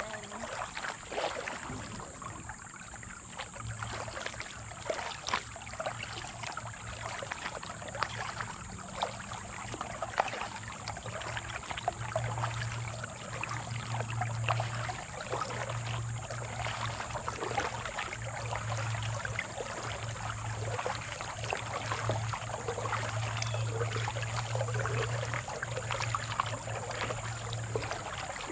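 Kayak paddling: a double-bladed paddle dipping and pulling, with irregular splashes and water dripping off the blades over steady water trickle. A low hum comes and goes through most of it.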